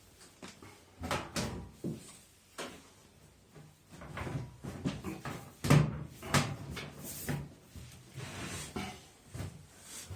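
Washing machine cabinet panel being fitted onto its latch hooks and snapped shut: a string of irregular knocks and clicks, the loudest about six seconds in.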